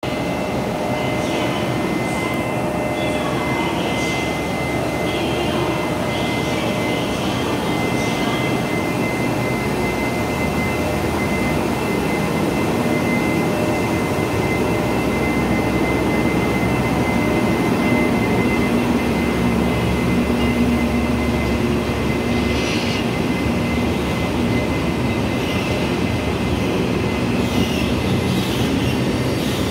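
Freight train pulling out, led by R100-class diesel-electric locomotives whose engines run with a low rumble and a steady high whine. A few brief clanks are heard from time to time.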